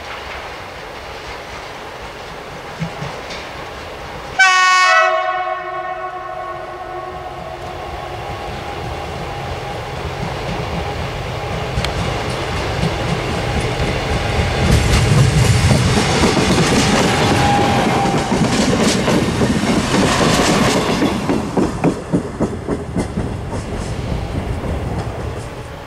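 A diesel railbus sounds its horn in one sudden blast about four seconds in, then comes closer and passes, its engine and wheel noise building up. Near the end comes a run of regular clicks of the wheels over rail joints.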